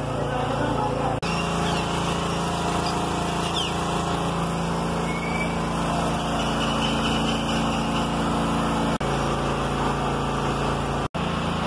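A steady drone like a small engine or motor running, broken by brief dropouts about a second in, near nine seconds and near eleven seconds.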